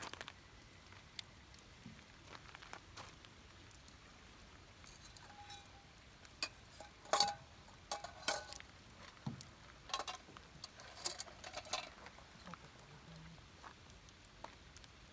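Campfire crackling: irregular small pops and snaps from burning wood, with a denser run of louder snaps around the middle.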